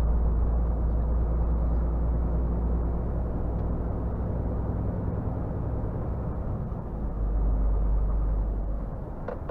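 Scania R450 truck's engine running steadily as the truck drives, a low hum with road noise, getting louder for a second or so about three-quarters of the way through.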